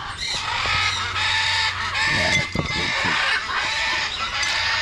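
Several parrots squawking over one another in loud, near-continuous, overlapping calls.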